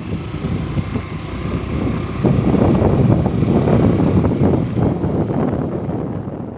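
Suzuki Access 125 scooter on the move, with wind buffeting the microphone in a ragged rumble; it grows louder about two seconds in and eases off near the end.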